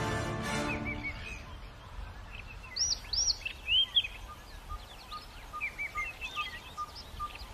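Background music fading out in the first second or so, then several wild birds calling with short, arching whistles and chirps, loudest about three to four seconds in. From about halfway a short, even note repeats about twice a second beneath them.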